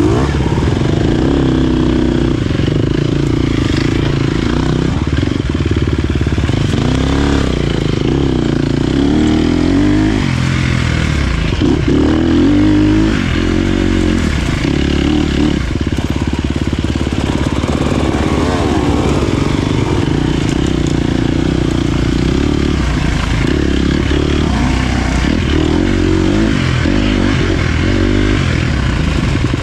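Dirt bike engine running hard, its pitch climbing and dropping again and again as the throttle is worked.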